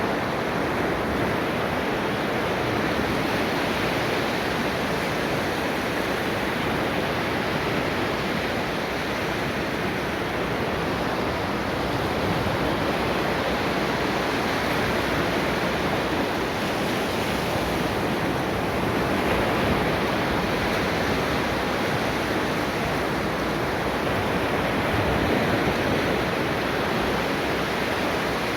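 Ocean waves breaking and washing on a beach, a steady rush of surf that swells and eases gently.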